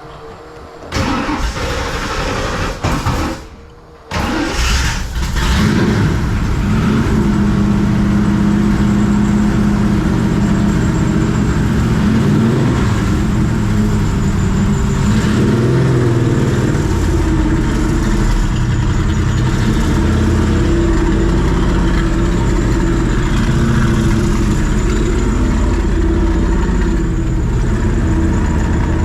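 AC Cobra V8 cold start: a first burst of cranking for about two seconds, a short break, then the engine fires about four seconds in and settles into a loud, steady idle.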